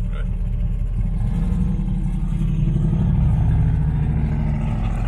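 Gen V 5.3 L V8 engine of a V8-swapped Mazda RX2, heard from inside its cabin, running and then pulling away, its note rising from about a second in.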